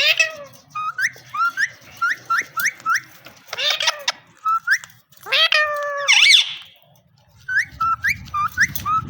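Indian ringneck parrot whistling: a run of short rising chirps in quick pairs, broken by a harsh squawk and a louder, longer call in the middle, then chirping again after a brief pause.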